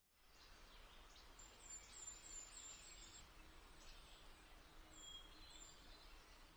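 Faint outdoor ambience with a small bird chirping: a quick run of about five high chirps a couple of seconds in, then a few more near the end.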